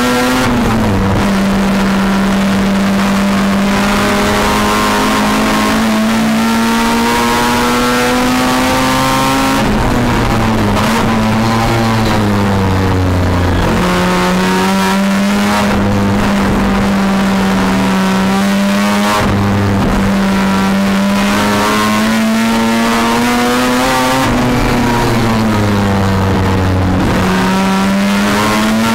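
Race-prepared 1973 Mazda RX-4's rotary engine heard from inside the cabin at racing speed, loud and continuous. Its note climbs slowly through long pulls and dips several times, near the third, half, two-thirds and end of the stretch, as the car brakes and shifts.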